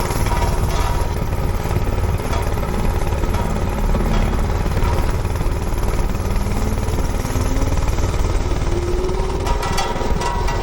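Manco Thunderbird minibike's small single-cylinder engine running steadily under load while being ridden, a loud continuous rattly engine sound.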